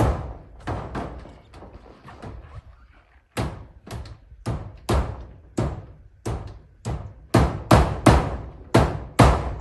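Hammer driving nails into zinc roofing sheets: sharp strikes about two a second, lighter taps with a brief pause about three seconds in, then firmer, steady blows that quicken near the end.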